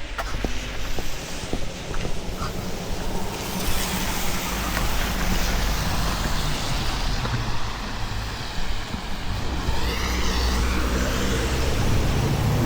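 A road vehicle's engine running at low revs close by, with a hiss that swells about three seconds in, and a brief wavering whine about ten seconds in.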